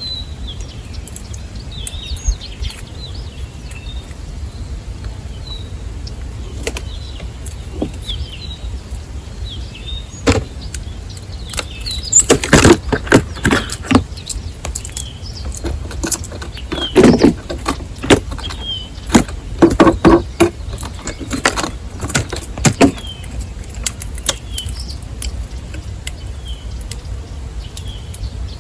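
Small songbirds giving short high chirps throughout, with a cluster of loud, sharp taps and knocks close to the microphone in the middle stretch, over a steady low rumble.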